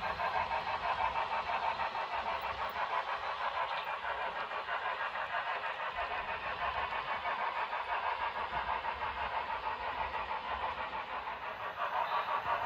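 HO-scale model train running past on the layout, a steady fast rhythmic pulsing that eases slightly and then grows louder near the end.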